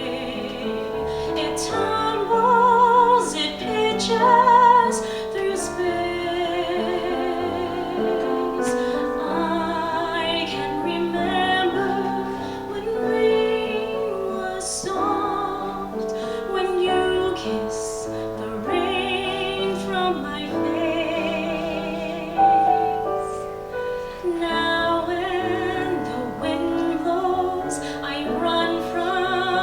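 A woman singing a musical theatre song with piano accompaniment, holding long notes with vibrato.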